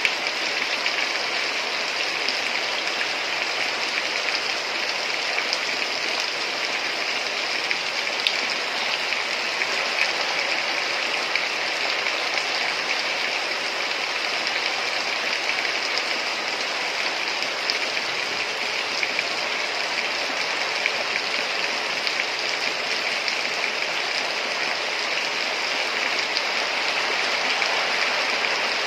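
Heavy rain falling steadily, a dense even hiss of drops with fine pattering.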